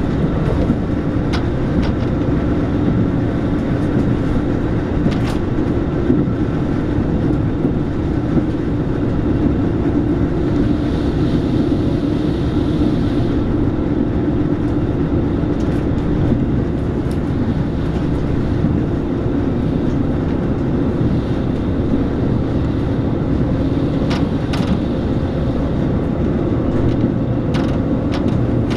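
Steady running noise inside a diesel local train: engine drone and wheels on rail, with a few sharp clicks scattered through it and a brief hiss about halfway.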